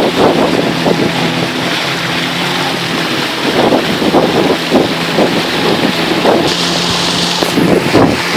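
Boat motor running steadily under way, with wind buffeting the microphone. A brief hiss comes in about six and a half seconds in.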